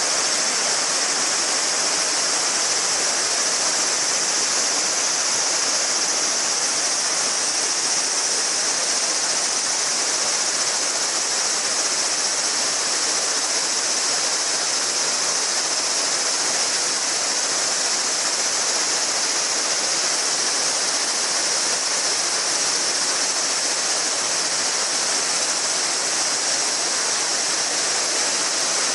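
A shallow river babbling over stones, with a dense chorus of summer cicadas singing high and steadily over the water.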